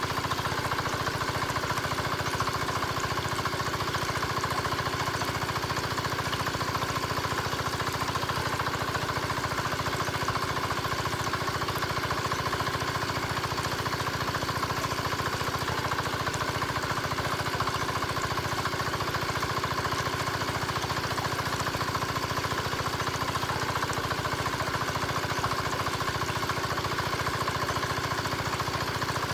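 Small engine running steadily at idle with a fast, even pulse: the motor of a miniature diesel-style water pump pumping water.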